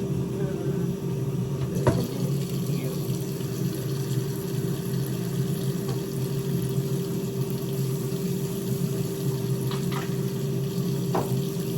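Steady hum of kitchen noise, with a running tap or appliance, and a few light knocks of dishes or utensils, one about two seconds in and two near the end.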